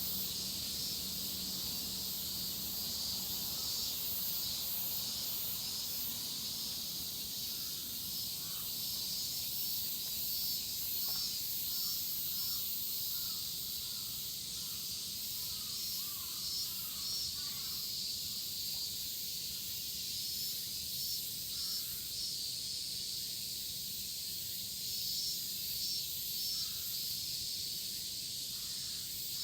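A chorus of cicadas droning steadily, a continuous high, shrill hiss with a faintly pulsing texture.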